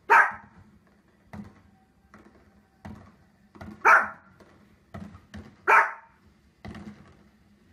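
Small fluffy dog barking three sharp, loud barks, at the start, about four seconds in and about six seconds in, reacting to fireworks on a television. Between the barks come quieter bangs and pops from the fireworks on the TV.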